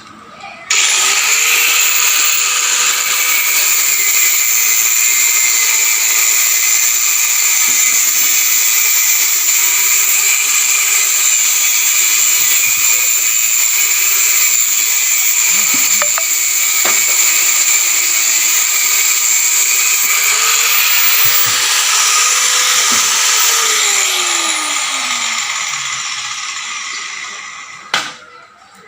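Electric power tool with an abrasive cut-off wheel cutting steel reinforcing bar. The motor comes up abruptly about a second in and runs with a high whine and grinding hiss for over twenty seconds, then winds down with a falling pitch near the end. A sharp click follows just before the end.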